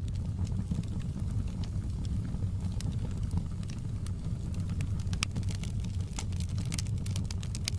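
Log fire in a fireplace crackling: irregular sharp pops and snaps over a steady low rumble of the flames, the pops coming thicker from about five seconds in.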